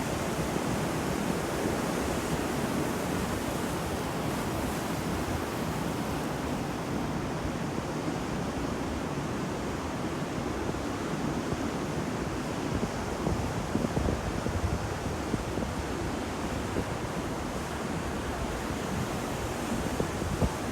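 Ocean surf: a steady rush of waves washing onto the shore, swelling slightly a little past the middle.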